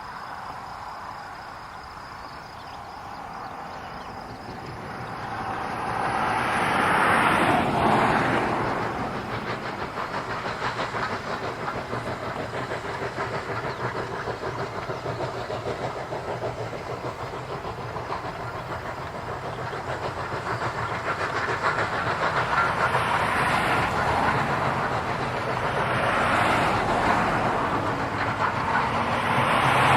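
Narrow-gauge steam train running along the track, its wheels clattering over the rail joints, with a hiss of steam. It swells loudest about a quarter of the way in, then runs on steadily and builds again near the end.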